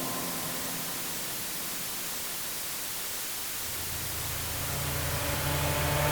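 A motorcycle approaching from a distance. Its low engine note comes up out of a steady hiss of background noise about halfway through and grows steadily louder.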